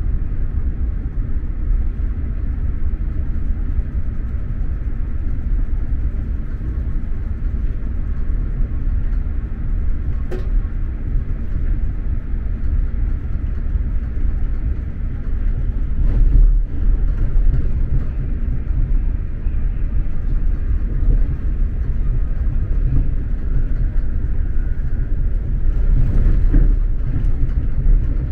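SJ X2000 high-speed train running along the line, heard from inside a passenger car as a steady low rumble of wheels on track. There is a single sharp click about ten seconds in, and the rumble swells briefly about halfway through and again near the end.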